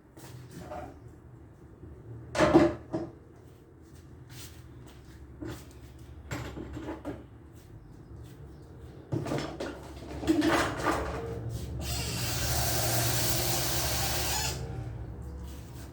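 Kitchen counter clean-up: scattered knocks and clatters of items being handled and moved, the loudest about two and a half seconds in. Near the end comes a steady rushing hiss lasting about two and a half seconds.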